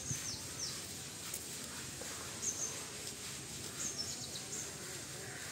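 Outdoor ambience of birds chirping: short, high, quickly falling calls every second or two, over a steady background hiss.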